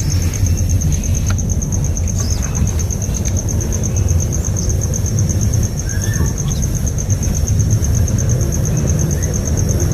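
Outdoor ambience: a loud low rumble under a steady, high, rapidly pulsing trill. A few short bird chirps are scattered through it.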